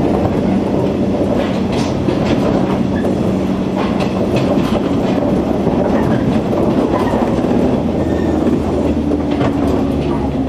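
Running noise inside a JR 103 series electric train car: a steady low rumble and hum, with the wheels clacking over rail joints.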